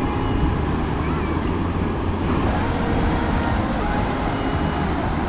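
Wind buffeting the microphone over the steady wash of surf, a loud, unbroken rumble.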